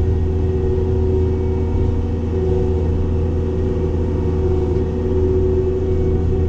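Cat 262D skid steer's diesel engine running steadily while driving a Loflin open-front brush cutter, with a steady whine over the engine note.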